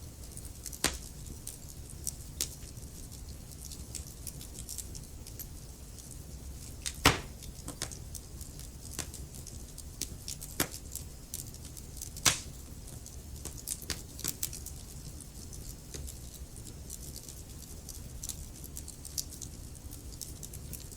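Wood fire in a fireplace crackling and popping, irregular sharp snaps over a low steady rumble, with two louder pops about 7 and 12 seconds in.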